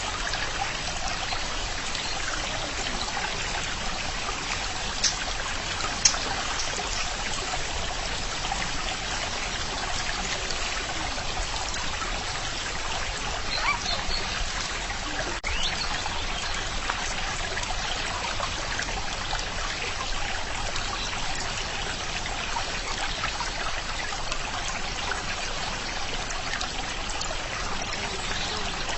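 Running water trickling and splashing in a steady stream, with a couple of brief sharp splashes about five and six seconds in.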